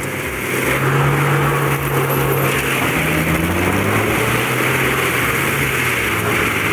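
630-horsepower AHWI RT 800 tracked forestry mulcher running under load as it grinds a tree stump: a steady engine drone over an even grinding hiss, the engine pitch sagging slightly for a moment partway through.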